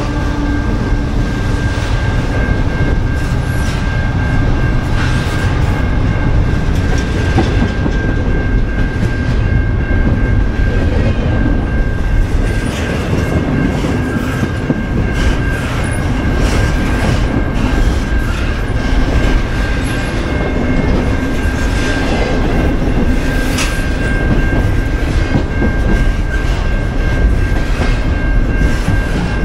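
A train rolling past at close range: a steady rumble of wheels on the rails, with a thin, steady ringing tone and scattered clacks over the rail joints.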